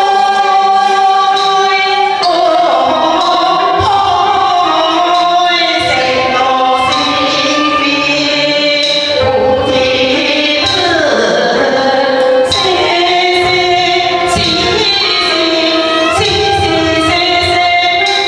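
Teochew opera singing over its traditional instrumental accompaniment, with sliding melodic lines and percussion strokes at intervals.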